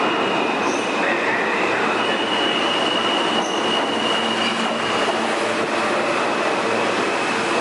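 R160 New York subway train moving along the track: a steady rumble of wheels on rail with a high, thin wheel squeal held over it.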